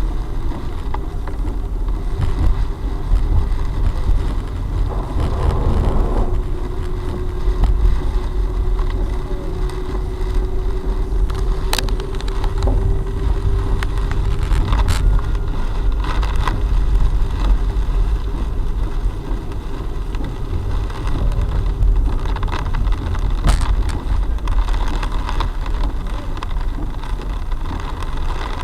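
Car driving, heard from inside the cabin on a dash cam: a steady low rumble of engine and tyres. A steady hum runs through the middle, with a few sharp clicks.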